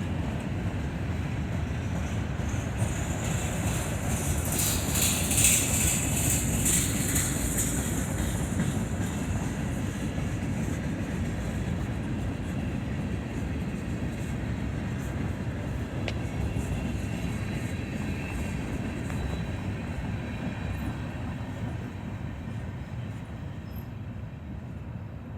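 Freight cars of a Norfolk Southern mixed freight train rolling past with a steady low rumble from the wheels on the rails. A high-pitched squeal rises about three seconds in and dies away by about eight seconds. The rumble grows fainter near the end as the train moves away.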